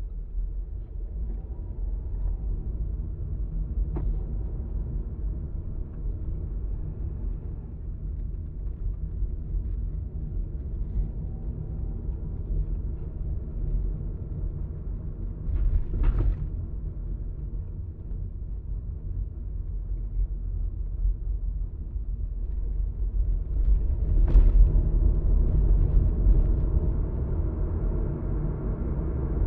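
Steady low road and engine rumble of a car driving on an expressway, heard from inside the cabin. There is a faint click about four seconds in and brief louder swells of noise around the middle and again later on.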